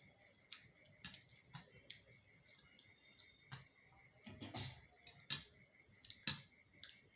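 Eating sounds: scattered soft clicks and smacks of chewing and of fingers working food, with a short cluster a little past the middle and two sharper smacks near the end.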